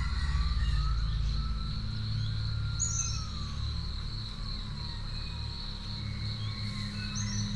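Nature ambience: a steady high insect trill like crickets, with a few short bird chirps, over a low steady drone. A soft tone glides slowly down in the first half.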